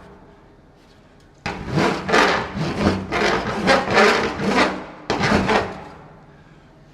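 Vixen file rasping across aluminum on a fuel tank, smoothing down a weld: after a quiet second and a half, a run of about eight strokes back and forth.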